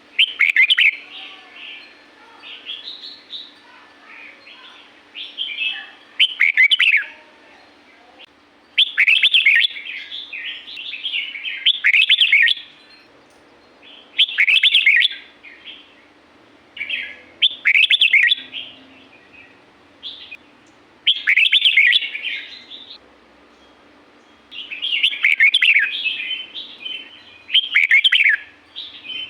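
Red-whiskered bulbul singing: short, bright, warbled phrases repeated about every three seconds, with quieter twittering in between.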